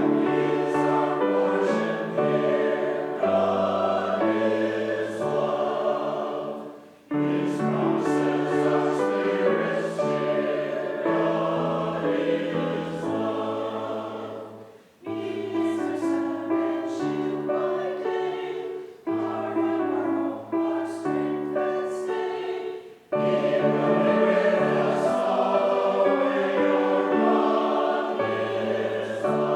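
A choir singing a hymn in harmony, line by line, with brief breaks between phrases.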